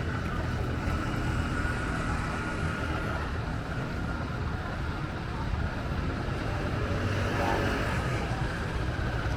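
Wind rumbling on the microphone, mixed with a steady wash of road traffic and faint voices.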